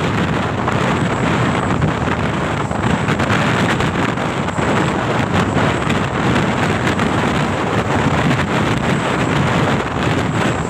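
Steady wind noise on the microphone mixed with the rumble of a moving vehicle on the road, with no distinct events.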